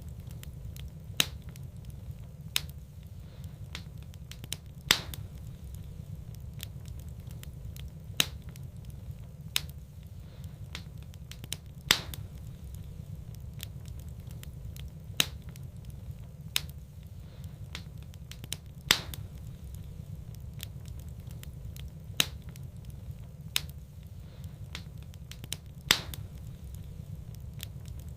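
Wood fire burning in a fireplace: sharp crackles and pops every second or few, irregularly spaced, over a steady low rumble.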